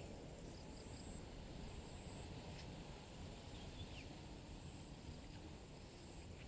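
Faint countryside ambience after rain: a high, thin insect trill in the first couple of seconds and a couple of short bird chirps near the middle, over a low steady background hum.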